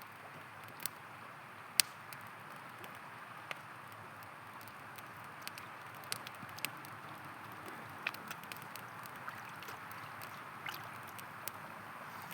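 A river running steadily, with a campfire crackling over it in sharp, irregular pops and snaps; one loud pop comes about two seconds in.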